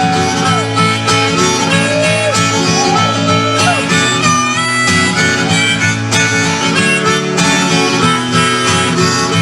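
Instrumental break in a live bluegrass/folk song: a harmonica plays a melody with bent and sliding notes over strummed acoustic guitar.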